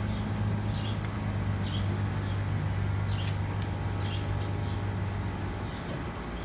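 Steady low mechanical hum, with short high bird chirps about once a second over it.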